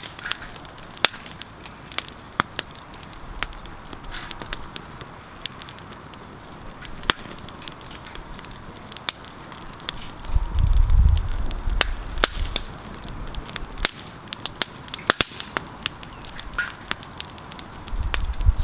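Wood campfire crackling, with frequent sharp pops and snaps over a steady hiss. A low rumble comes in about ten seconds in, lasts a few seconds, and returns near the end.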